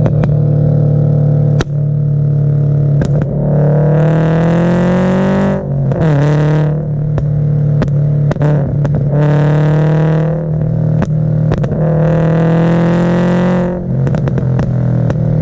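Scion FR-S flat-four engine running with a backfire tune: it holds a steady note, then revs up four times, each rev dropping off sharply. Sharp exhaust pops and cracks come scattered throughout.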